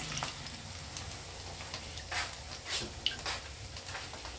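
Plantain slices sizzling steadily in shallow hot vegetable oil, with a few light taps and scrapes of a spatula against the frying pan from about halfway in, as a fried slice is lifted out.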